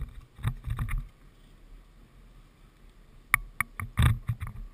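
Irregular knocks and clattering thumps, a few at the start and a cluster of sharper clicks and thuds from about three seconds in, with a quiet stretch between.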